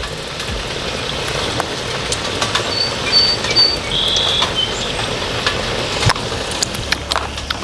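Egg foo young patty frying in hot oil: a steady sizzle. Over it come light clicks and scrapes of a knife spreading Miracle Whip on bread, and a few brief high chirps around the middle.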